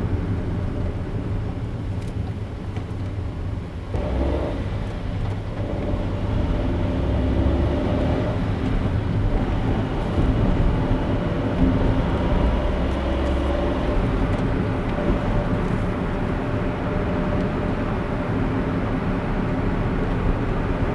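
Car driving on city streets: steady engine and tyre noise, with a faint humming tone coming in about four seconds in.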